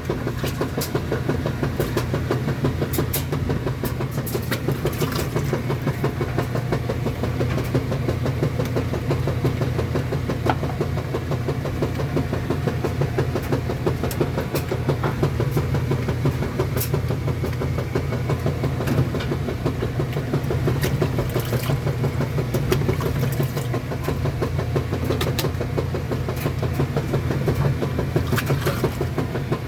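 Kenmore washing machine spinning: the motor and drum run with a steady, even hum, with scattered faint ticks.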